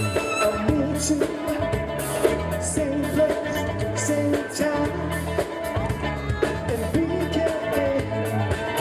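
Live band playing a disco-funk dance song with a steady pulsing beat and singing.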